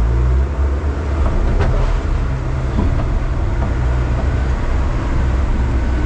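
A steady, loud, low engine rumble, with a faint knock about one and a half seconds in.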